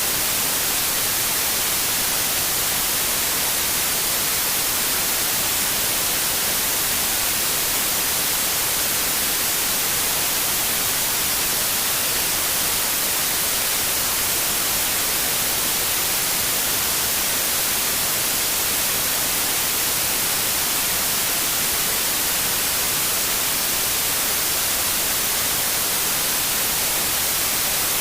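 Steady synthetic white noise: an even, unchanging hiss, strongest in the high end.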